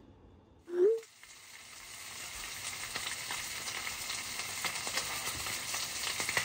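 Pork belly frying in a pan on a gas stove: a steady sizzle full of small pops and crackles. It fades in after a short, loud rising note about a second in.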